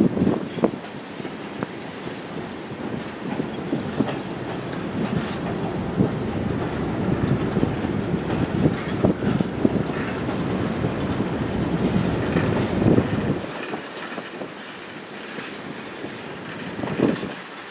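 Freight train cars rolling past, their wheels clicking and knocking over rail joints. The rumble drops off about three-quarters of the way through, with one last louder clack near the end.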